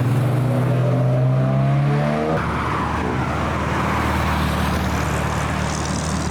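Car engine accelerating hard, its note climbing steadily, then breaking off sharply about two seconds in; a steady rush of engine and road noise follows.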